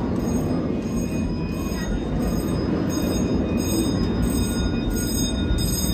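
Open-sided passenger car of a 3-foot narrow-gauge train rolling along the track: a steady low rumble of wheels on rails.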